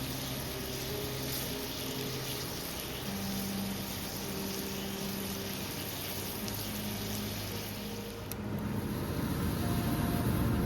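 Steady rush of a river flowing over stones, with low, held tones shifting pitch every second or two above it. A low rumble swells near the end.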